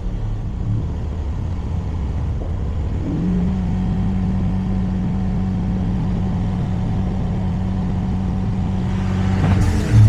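Turbocharged car engine running steadily with a low hum; about three seconds in a steady whine joins it and the sound grows slightly louder.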